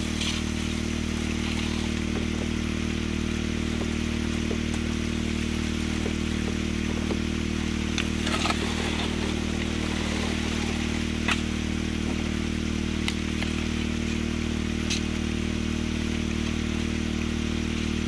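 Engine-driven water pump running at a steady throttle, with water rushing through a Gold Hog Excavator sluice. A few sharp clicks of gravel come through now and then.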